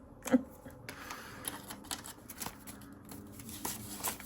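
Paper banknotes and envelopes being handled, with scattered light rustles and small clicks as cash is put away.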